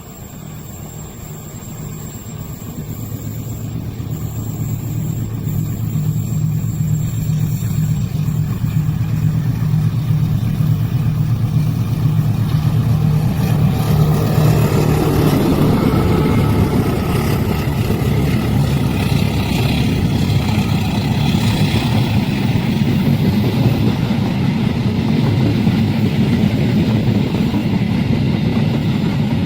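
Train approaching and passing a level crossing: a steady low diesel locomotive drone grows louder over about a dozen seconds, then gives way to the dense rumble of the passing train.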